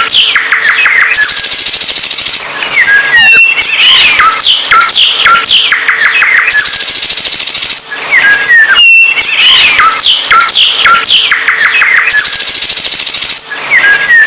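A songbird sings loudly and without pause, in a fast, varied song of sharp whistled notes, rapid trills and a high buzzing passage. The same song phrase comes round again about every five and a half seconds.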